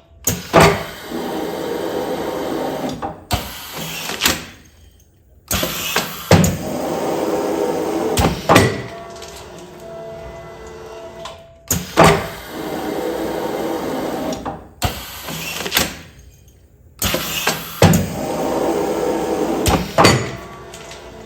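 Automatic food-container sealing machine cycling continuously. Each cycle starts with a sharp clack, runs for about three seconds, then drops quiet briefly. The cycle repeats about every six seconds, three times.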